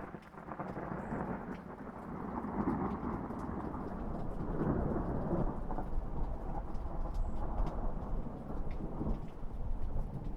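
A long roll of thunder over steady rain. The rumble breaks in suddenly, swells to its loudest in the middle and keeps rolling to the end, with light raindrop ticks scattered through it.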